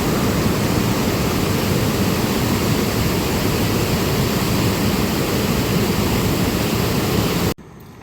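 Loud, steady rush of water, an even roar with no rhythm, which cuts off abruptly near the end.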